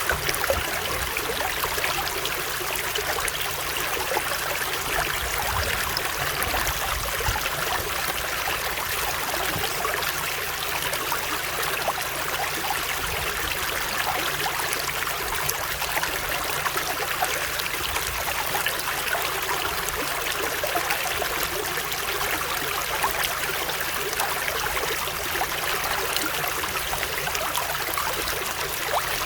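Running water flowing steadily, a constant even rush with no breaks.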